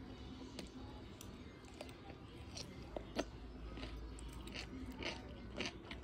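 Someone chewing a mouthful of Vietnamese rice noodle sheets and fried pork sausage close to the microphone: soft, wet mouth clicks with a few sharper crackles scattered through.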